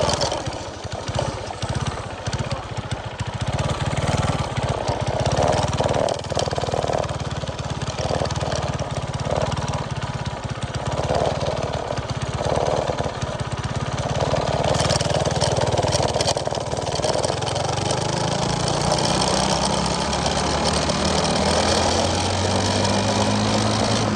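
Minibike's small single-cylinder engine with a 265 hot cam and stiffer 22-pound valve springs, running with an uneven, choppy lope for a while. Its pitch then climbs steadily from a little past the halfway point as the revs rise.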